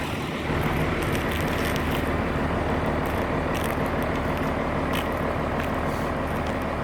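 Case IH Maxxum 5150 Plus tractor's diesel engine idling steadily, with a few faint clicks over it.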